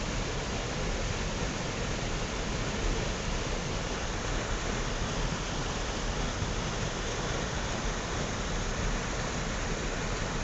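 Steady rush of running water, an even continuous noise without surges or separate splashes.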